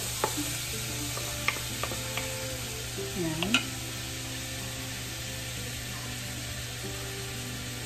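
Shrimp and onions sizzling in a nonstick wok, stirred with a wooden spatula that taps and scrapes against the pan a few times. After about three and a half seconds the stirring stops and only the steady sizzle remains.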